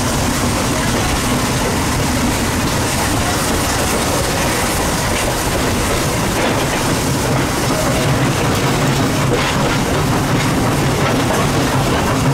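Steady running noise of a train heard from on board, close behind the tender of PRR B4 0-6-0 steam locomotive 643. Wheels rumble on the rails, with a few clicks from the track.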